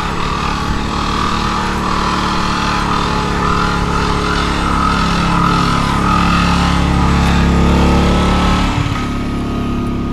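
Car engine running steadily, growing louder and then easing off abruptly near the end.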